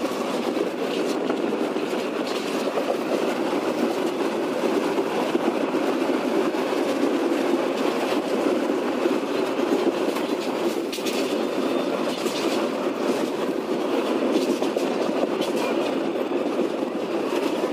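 Passenger train heard from aboard as it crosses a river bridge: a steady rumble of wheels on rails, with a few scattered clicks.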